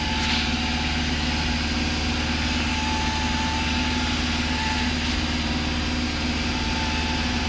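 Cessna 172's piston engine and propeller droning steadily, heard inside the cabin, with a thin steady whistle above it: wind going through a gap in the airframe.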